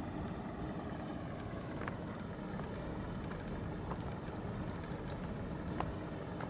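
A truck engine running steadily, with a few faint clicks over it.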